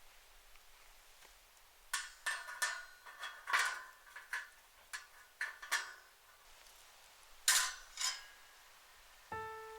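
Metal cookware and utensils clinking together in a string of sharp knocks with brief ringing, clustered over several seconds, the loudest pair about two thirds of the way in.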